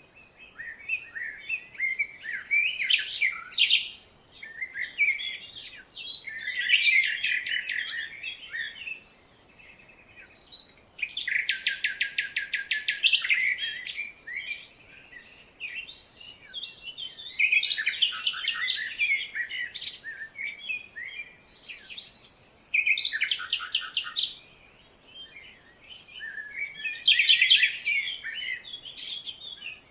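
Several wild birds singing and calling in bursts of overlapping, high-pitched chirps and warbles, with short pauses between them. A fast, even trill stands out a little before the middle.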